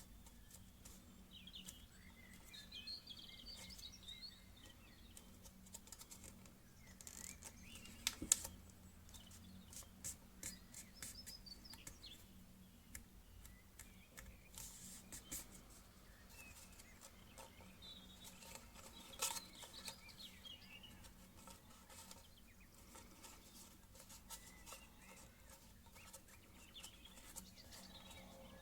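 Faint crinkling and creasing of a sheet of paper being folded, with two sharper crackles about 8 and 19 seconds in. Faint bird chirps come and go in the background.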